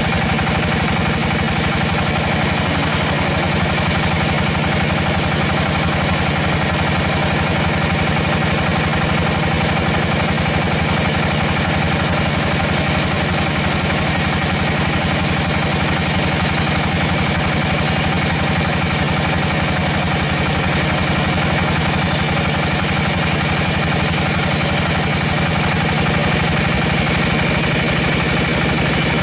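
Sawmill machinery running steadily, with an even engine hum and no change in pitch or load.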